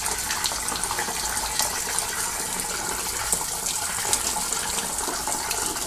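Water rushing steadily from a hose into a cast-iron steam boiler being washed out, with small splashes and spatters, flushing oil residue out of the boiler.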